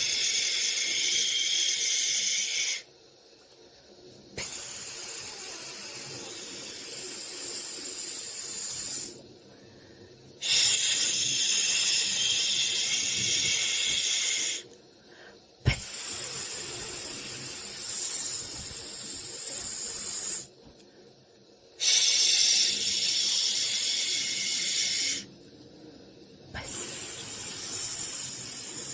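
White noise for soothing a baby: a high hissing 'shh' that comes in about six stretches of several seconds each, separated by short pauses. There is one sharp click about halfway through, during a pause.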